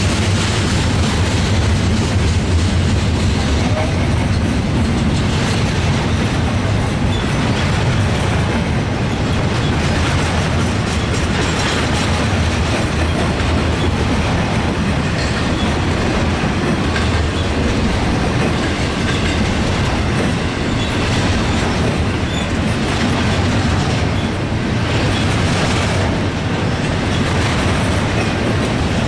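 Double-stack intermodal freight train's well cars rolling past: a steady heavy rumble of steel wheels on rail with repeated wheel clacks over the track.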